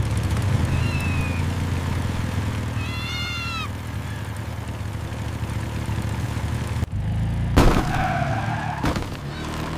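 A cat gives a short, arching meow about three seconds in, over a steady low rumble. A louder, rough, noisy sound follows at about seven to nine seconds.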